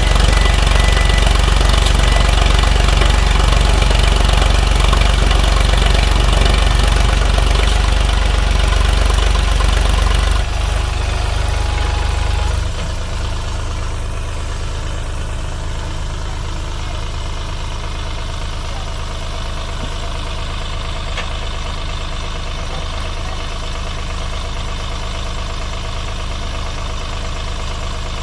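Sonalika 745 tractor's diesel engine running loudly, then dropping in two steps about ten and thirteen seconds in to a steady, quieter idle.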